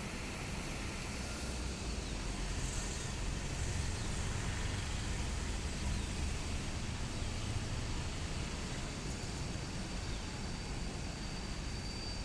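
Steady outdoor background noise with a low rumble and an even hiss.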